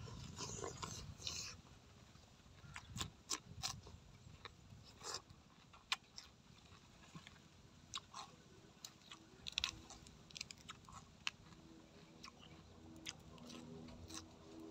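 A man eating spicy chicken feet up close: chewing and biting, with irregular wet mouth clicks and small crunches.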